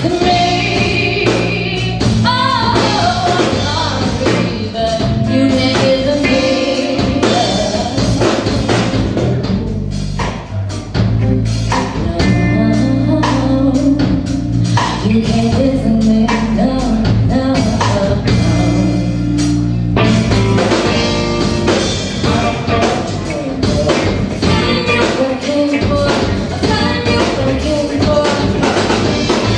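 Live rock band playing: drum kit, bass and guitar, with a voice singing over them at times.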